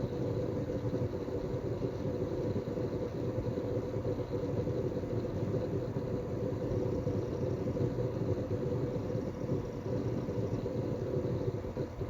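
Synology DS418play four-bay NAS running: a steady hum with a continuous rough churning low down, the working noise of its fan and hard drives.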